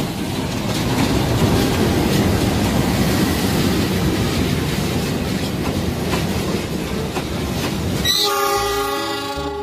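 A locomotive-hauled passenger train passing close by: a steady rumble with wheel clatter from the carriages rolling over the rails. About eight seconds in, a train horn sounds, a chord-like blast held to the end.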